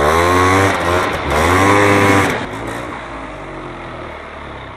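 1999 Polaris Scrambler 400's two-stroke single-cylinder engine revved twice with the throttle, then settling back to a steady idle that fades a little near the end. The engine is running well again after a carburetor cleaning and a freed-up seized motor.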